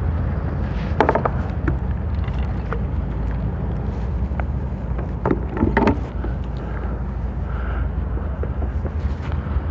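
Steady low wind rumble on the microphone, with a few short knocks and scrapes against the kayak, about a second in and again around five to six seconds, as the anchor is hauled up.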